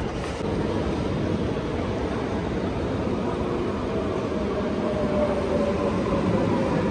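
Dutch NS double-deck electric passenger train slowing into a station platform: a steady rumble that grows slowly louder, with a faint whine that falls in pitch over the last few seconds.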